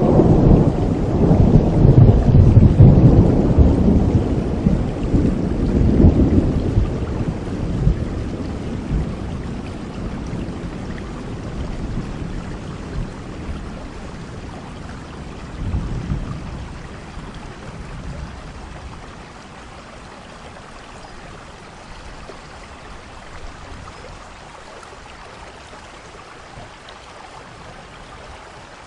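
Thunderstorm: a long roll of thunder, loudest in the first several seconds and fading away, with a smaller rumble about halfway through, over steady falling rain.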